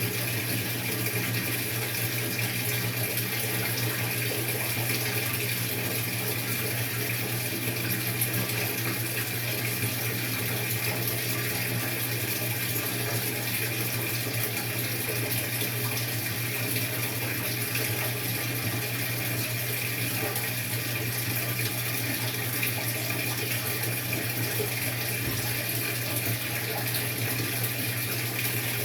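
Maytag top-load washing machine on its tub clean cycle: water rushing steadily in the tub with a constant low hum.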